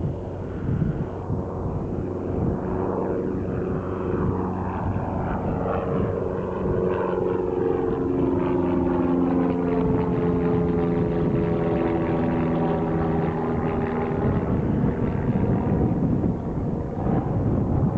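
Piper Warrior single-engine propeller plane's four-cylinder Lycoming engine at takeoff power as it departs past the microphone, its drone dropping in pitch as it goes by.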